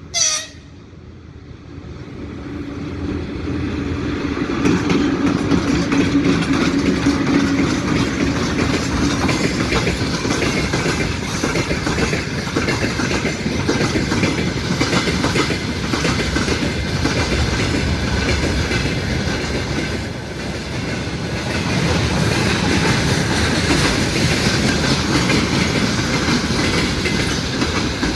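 A train passing close by at speed, its wheels clattering over the rail joints. The sound builds up over the first few seconds and stays loud, with a steady low hum early on. A short, sharp sweep falls quickly in pitch right at the start.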